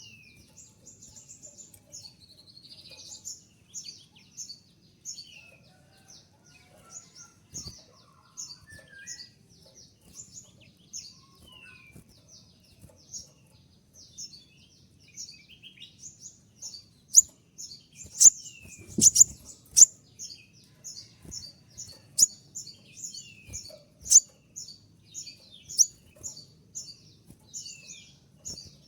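Konin (kolibri ninja sunbird) calling: a fast, unbroken run of short, high chips, about three a second, with occasional lower down-slurred notes mixed in. The chips grow louder and sharper in the second half.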